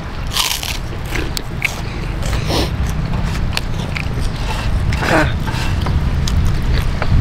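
Close-up eating sounds: crunching bites and chewing of ayam geprek (smashed fried chicken) with sambal and crackers, a scatter of short sharp crunches.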